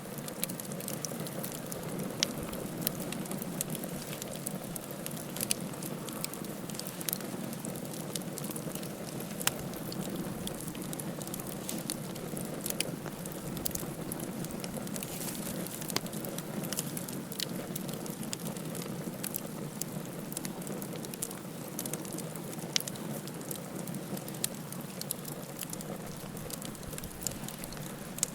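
Campfire burning: a steady low rush of flame with scattered sharp crackles and pops.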